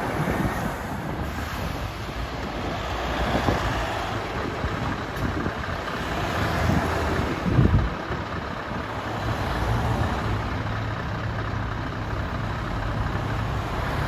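Heavy truck's diesel engine running, with road noise, and one short loud thump about seven and a half seconds in.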